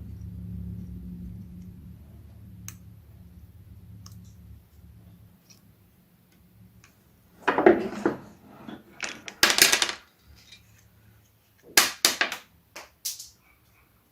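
A low machine hum dies away over the first few seconds. Then come several sharp clatters and clicks of metal parts being handled and set down, the loudest about halfway through.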